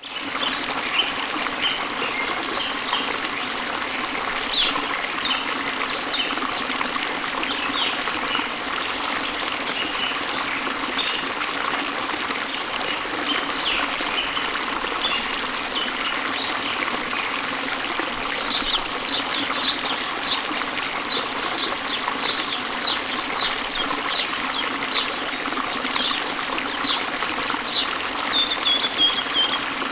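Steady rush of falling water, with small birds chirping and singing over it. From about two-thirds of the way through, a bird repeats short high chirps more quickly, ending in a brief trill.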